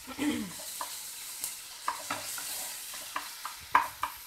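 Chopped small onions, green chillies and tomatoes sizzling in oil in a nonstick kadai, with the hiss running throughout. A wooden spatula stirs them, scraping and knocking against the pan every so often.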